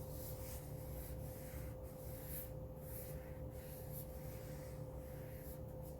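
Faint, soft paper rustles of cards or pages being handled, irregular and brief, over a steady low hum and a thin steady tone.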